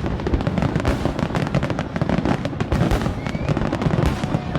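Dense barrage of aerial firework shells bursting in rapid succession, many booms and crackles overlapping without a break.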